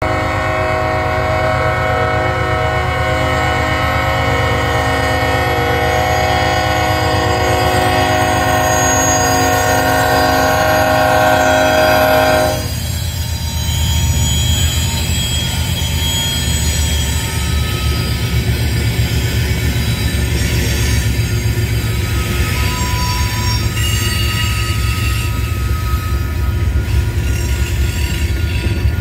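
BNSF diesel freight locomotive's air horn holding one long chord of several notes for about twelve seconds, then cutting off suddenly. The locomotives and then loaded covered hopper cars rumble past, steel wheels running on the rails with a few faint brief squeals.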